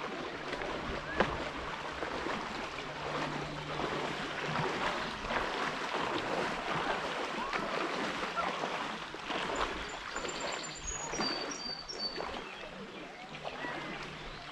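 River water rushing and splashing around kayaks being moved through the water, with many small scattered knocks and splashes. A few short high chirps come about ten seconds in.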